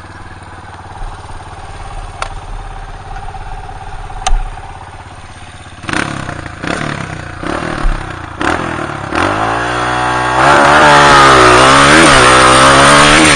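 Dirt bike engine idling low and steady with a few sharp clicks, then blipped several times from about halfway and revved up. Near the end it runs loud under throttle, its pitch rising and falling as the throttle opens and closes.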